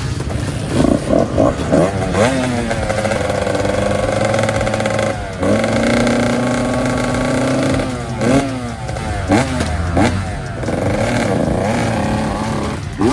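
Motocross dirt bike engine revving on a track. Quick rises and falls in pitch in the first couple of seconds give way to long held runs of steady revs. The revs drop suddenly about five seconds in, and more quick blips come around eight to ten seconds.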